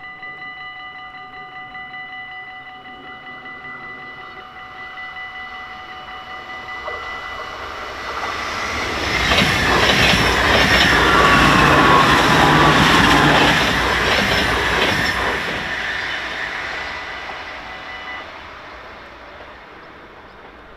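Level-crossing warning bell ringing rapidly while a Dutch passenger train approaches and passes at speed; the train's rumble and rail noise build, peak about halfway with a brief falling whine, then fade. The bell stops near the end as the train dies away.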